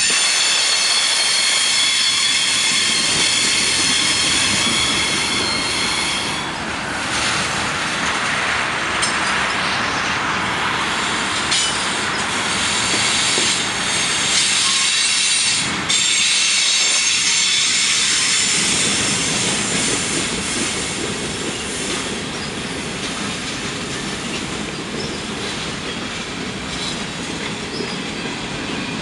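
Freight cars of a mixed freight train rolling past: a steady rumble of steel wheels on the rails, with a high squeal from the wheels that is strongest in the first few seconds and fades in and out after that.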